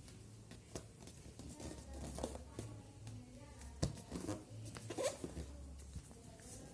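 A sheet of paper being handled and folded: short rustles and sharp creasing strokes, the loudest a little under four seconds in, over a low steady hum.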